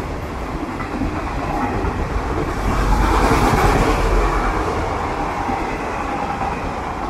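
Cream-and-maroon Indian Railways passenger coaches rolling past at speed, their wheels clattering over the rails. The noise swells to its loudest about three to four seconds in, and the last coach goes by near the end.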